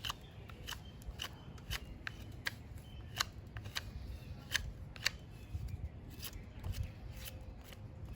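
Knife blade cutting into soft, dry Northern White Cedar wood, giving irregular small clicks and scrapes, about two a second.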